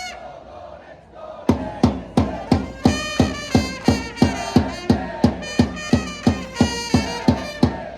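A Japanese baseball cheering section plays a player's cheer song: trumpets over a steady drum beat of about three strikes a second, with fans singing and chanting along. The song starts after a short lull about one and a half seconds in.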